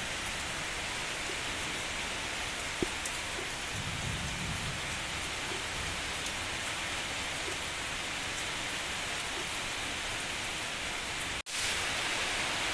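Steady rain falling, with a single sharp drip-like tick about three seconds in and a brief low rumble about four seconds in. Near the end the sound cuts out for an instant and comes back with a brighter hiss.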